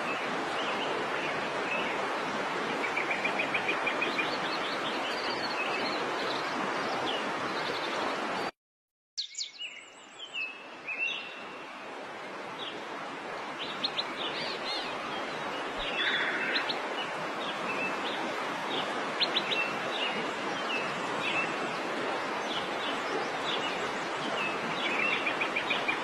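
Small birds chirping and trilling in short phrases over a steady rushing background hiss. The sound cuts out completely for about half a second a third of the way through, then the calls carry on.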